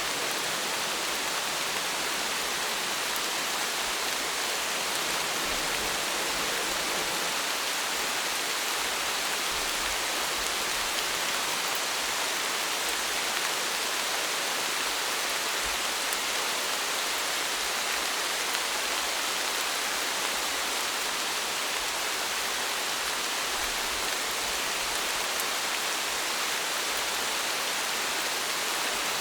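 Steady rain, an even hiss of drops falling, with no change in strength and no thunder.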